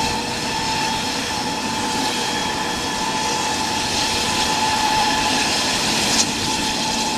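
Three-engine jet idling while parked: a steady whine over an even rushing noise that does not change.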